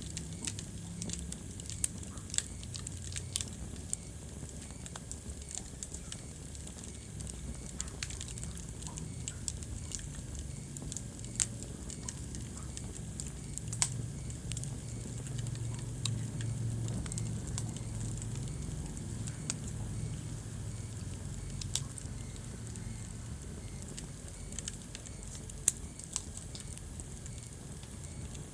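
Wood fire burning in a fireplace: irregular crackling with scattered sharp pops, a few of them louder, over a low steady rumble of the flames.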